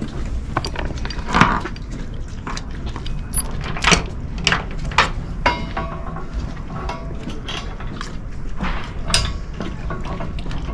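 Irregular metal clinks and clicks of hand tools working on a new boat anchor's fittings as they are fastened, over a steady low rumble.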